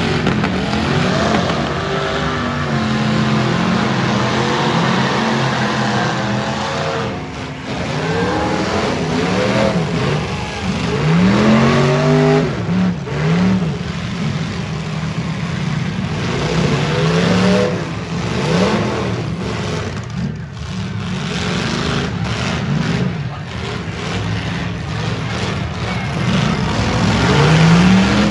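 Several demolition derby cars' V8 engines revving over one another, their pitch repeatedly climbing and dropping back as the drivers work the throttles.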